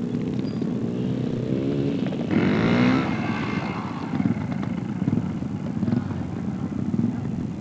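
Car engine running, with one louder swell in pitch about two and a half seconds in, as from a rev or the car driving past.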